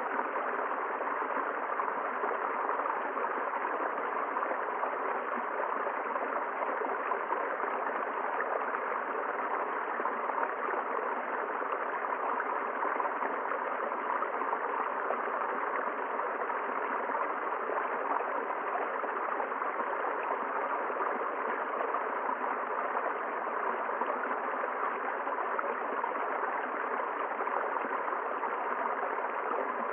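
River water flowing over rocks: a steady, unbroken rushing and gurgling.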